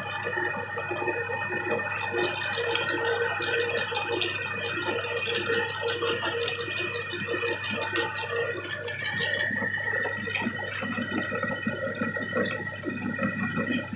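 Meat grinder working through peanuts: a steady hum with irregular rattling and scattered sharp cracks as the nuts are fed in and crushed.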